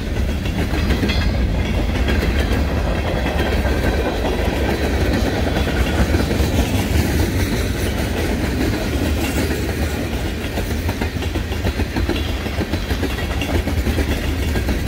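Loaded freight cars (tank cars, covered hoppers and boxcars) rolling past close by, their wheels clacking steadily on the rails over a low rumble.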